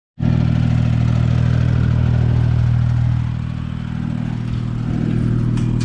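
Ventrac 4500 compact tractor's engine running steadily at a constant speed, warming up after being started.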